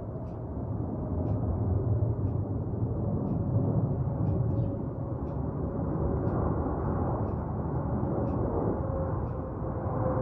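Jet airliner on its landing approach: a steady engine rumble with a faint whine that slowly falls in pitch.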